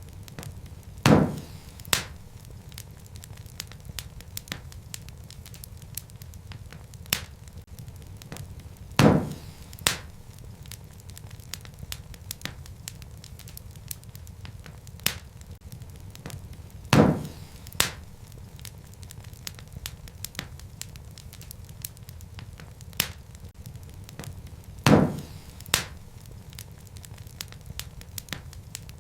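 Wood fire crackling in a fireplace: a steady low rumble of flames under constant small crackles, with a louder pair of pops about every eight seconds.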